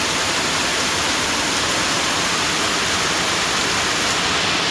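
Heavy rain from a storm pouring down steadily, an even, dense hiss.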